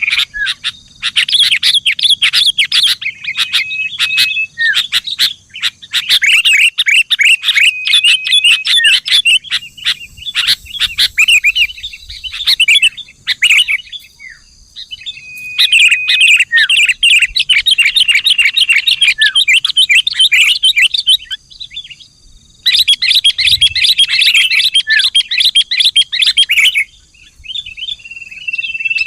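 Sooty-headed bulbul song: five bouts of rapid, bubbling chattering notes, each a few seconds long, with brief pauses and short level whistled notes between them.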